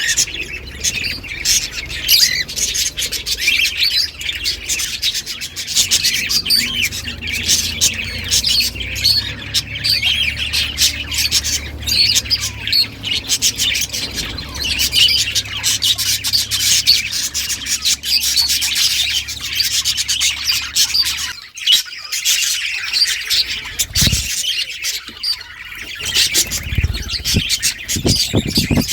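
Several budgerigars singing and chirping without a break.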